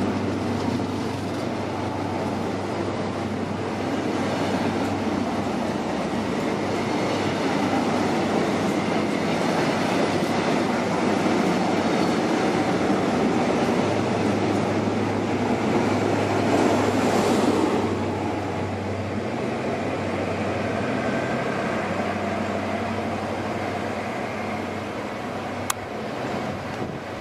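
A Great Western Railway HST pulling along the platform, with steady rolling wheel-on-rail noise from the Mark 3 coaches over the low drone of a Class 43 diesel power car. The sound swells about two-thirds of the way through, then eases. Near the end a sharp click is followed by a quieter train sound.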